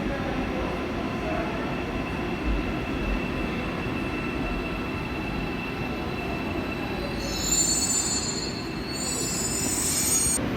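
Seoul Subway Line 4 electric train running on the rails with a steady rumble; about seven seconds in a high-pitched metallic wheel squeal sets in and cuts off abruptly near the end.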